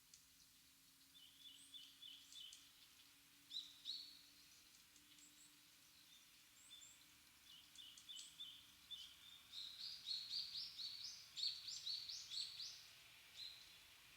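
Small birds calling with short, high chirps in quick runs, growing busier and louder in the second half.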